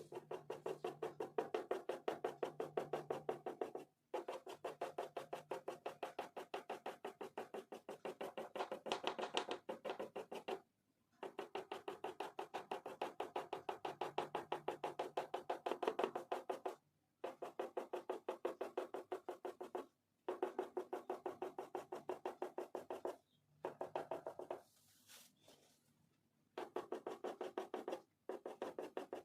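Oil pastel scribbled rapidly back and forth on paper, about ten scratchy strokes a second, in runs of a few seconds broken by short pauses.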